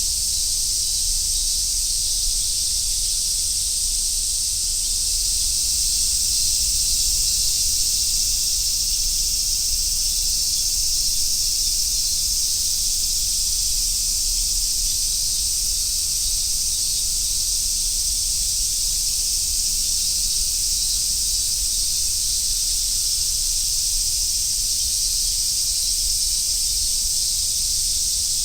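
A chorus of summer cicadas giving a steady, shrill, unbroken hiss, with a faint low rumble underneath.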